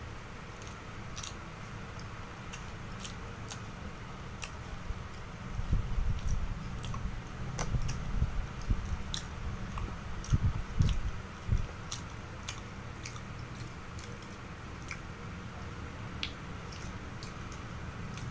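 Close-miked chewing of a donut, with many small wet mouth clicks and smacks. A run of dull low thumps comes through in the middle.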